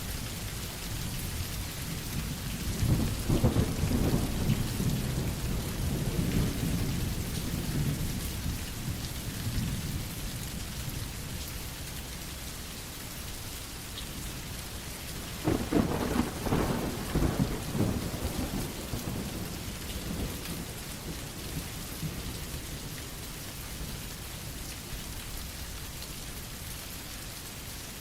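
Steady rain on a surface with two rolls of thunder: the first rumbles in about three seconds in and dies away over several seconds, the second comes at about the middle with a sharper crackling start and fades out.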